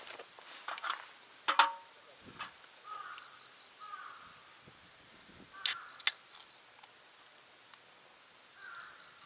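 A few sharp clicks and knocks, one about a second and a half in with a short metallic ring, as of metal camp gear being handled. A few short harsh bird calls come in the background.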